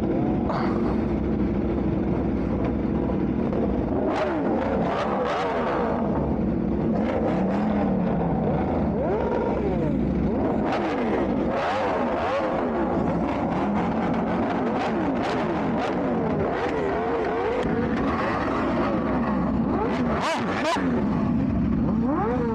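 Several car and motorcycle engines revving up and down and overlapping, over a steady engine drone.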